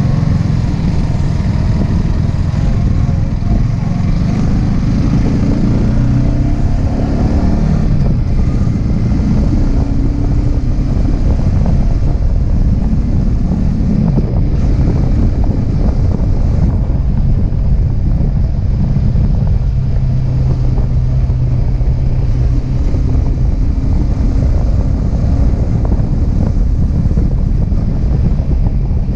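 Yamaha R15M's stock 155 cc single-cylinder engine and exhaust while riding, with the engine pitch rising and falling early on and holding steady for a few seconds past the middle. Wind buffets the action-camera microphone.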